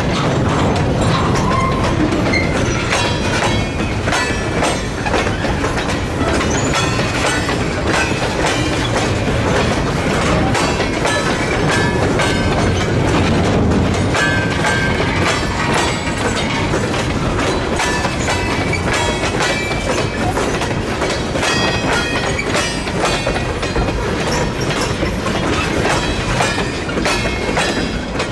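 Slow-moving freight train of tank cars and covered hoppers rolling past, its wheels clicking over rail joints with short squeals now and then, while the crossing's Federal Signal mechanical bell keeps ringing.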